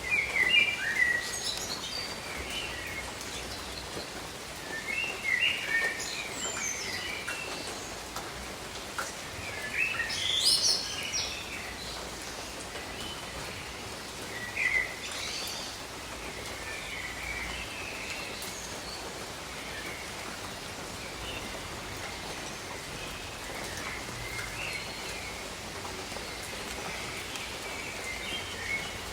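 Steady rain hiss with birds calling over it in short bursts of chirps and whistled notes, most lively in the first half and fading to scattered calls later.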